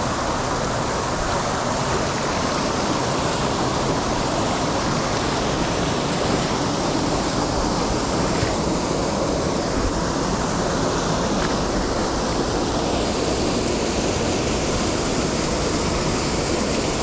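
Mountain stream rushing: a steady, unbroken noise of flowing water.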